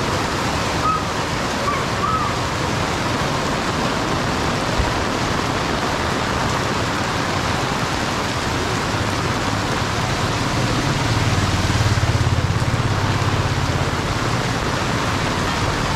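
Heavy tropical rain falling on a street and shop awnings, a steady hiss of water. About eleven seconds in, a low engine hum from a passing vehicle swells for a few seconds and fades.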